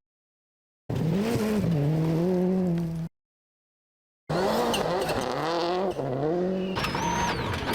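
A turbocharged World Rally Car engine at speed on a stage, revving up and down through gear changes, with tyre and road noise. It is heard in two short stretches, each cut off by about a second of silence.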